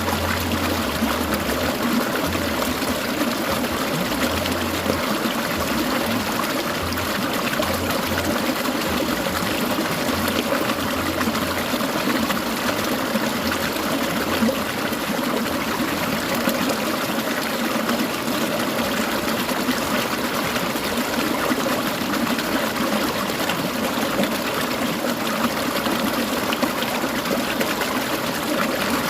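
Clear mountain stream water trickling and babbling over rocks in a steady, continuous flow.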